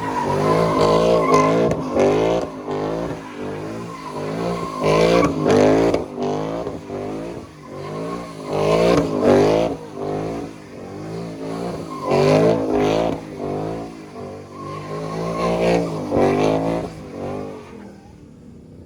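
Car engine revved hard over and over, its pitch climbing and dropping many times, with tyres squealing.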